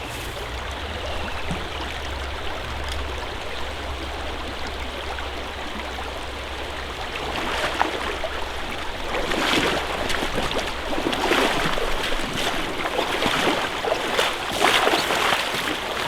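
Creek water running, a steady rushing, turning louder and choppier from about nine seconds in.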